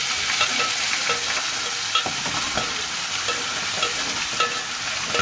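Ginger-garlic paste frying in hot oil in a pan, sizzling steadily as it is stirred, with scattered scrapes and clicks from the stirring.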